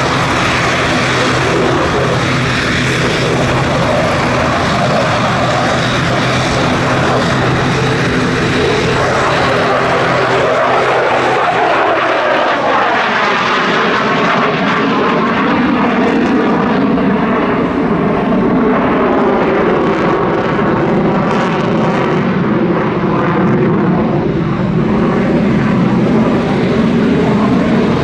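Loud jet engine noise from an F-16 fighter flying a display. Its pitch falls about ten to thirteen seconds in as the jet passes, then it runs on as a steady rumble with a swirling, wavering tone.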